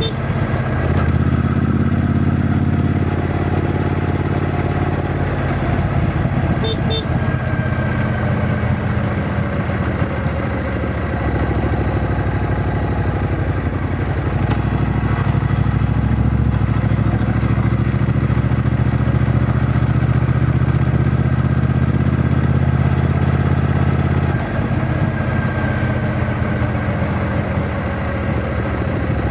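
Triumph Bonneville T120's 1200 cc parallel-twin engine running on the move, a steady low engine note that changes in pitch and level a few times. There are brief short ticks about seven seconds in.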